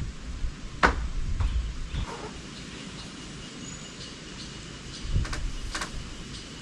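A few sharp clicks or knocks, the loudest about a second in, over low outdoor background noise that grows quieter after about two seconds.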